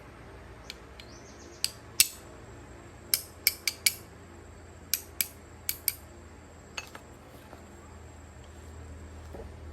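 Sharp metallic clinks of metal tools and engine parts being handled, about a dozen scattered through, the loudest about two seconds in and a quick run of four between three and four seconds, over a faint steady low hum.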